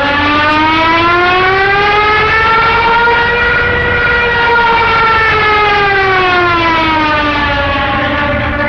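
Junkers Ju-87 Stuka's air-driven dive siren giving its piercing howl: one long wail that rises in pitch to a peak about four seconds in and falls back again, over a steady low drone.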